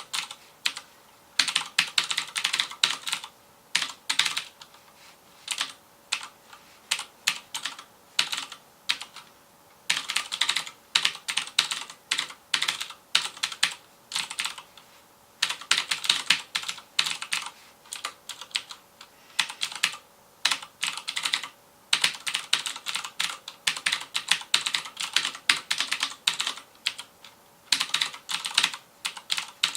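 Rapid typing on a FILCO Majestouch Convertible 2 mechanical keyboard with clicky Cherry MX Blue switches: runs of sharp keystroke clicks broken by brief pauses.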